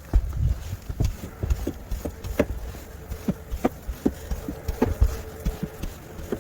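Footsteps trudging through deep snow, a soft crunching thud about every half second.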